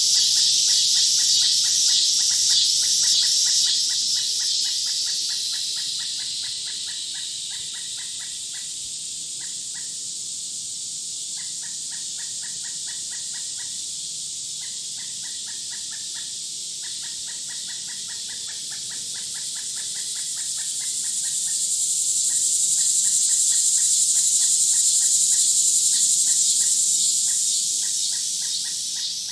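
Outdoor nature sound of insects and birds. A loud, high insect buzz pulses at first and fades over the first few seconds, then swells back to a steady high drone past the middle. Under it run bursts of rapid, evenly repeated chirps.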